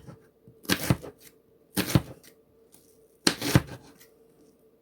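Knife work on an onion on a cutting board: three short clusters of cuts and crackling, about a second apart.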